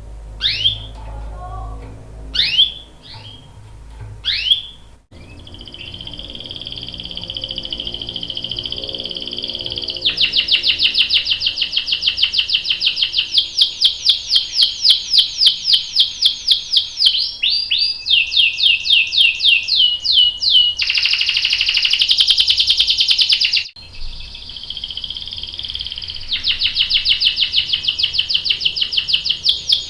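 Canary singing. A few sharp sweeping chirps come first, then long rolling trills of rapidly repeated high notes. These include a very fast buzzy roll later on. The song breaks off abruptly twice and resumes.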